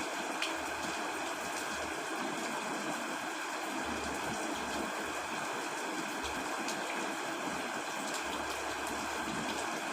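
Steady heavy rain falling on a tent, an even hiss with a few sharper drop taps.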